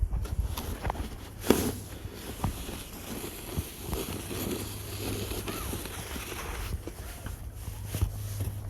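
Snow being shovelled by hand: scattered crunches, scrapes and footsteps in snow, with a sharp knock about a second and a half in, over a steady low rumble on the microphone.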